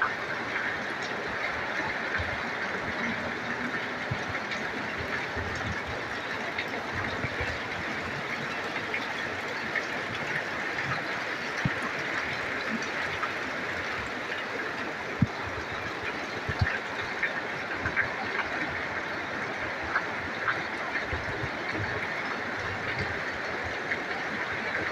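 Heavy rain falling: a steady hiss with scattered louder drops and drips.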